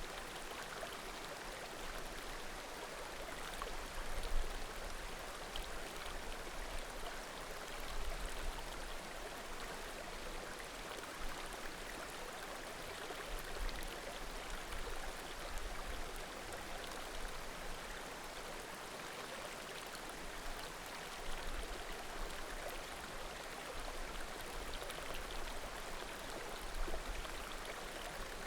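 Small mountain creek murmuring with a steady rush of flowing water.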